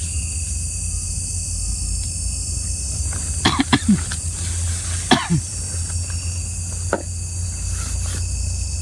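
A person coughing and clearing his throat a few times, in short bursts about three and a half and five seconds in, over a steady chirring of night crickets.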